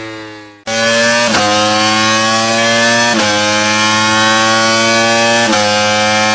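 Sport motorcycle with an Akrapovic aftermarket exhaust accelerating hard. The engine note climbs and drops back three times as it shifts up through the gears. The sound fades into a brief dropout less than a second in, then resumes loud.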